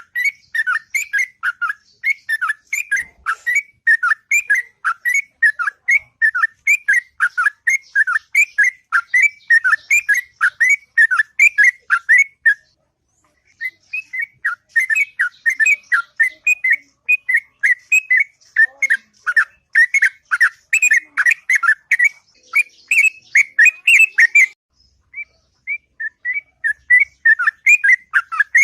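Yellow-vented bulbul (trucuk) singing a long, fast run of short, bubbly whistled notes, several a second, breaking off briefly twice before carrying on.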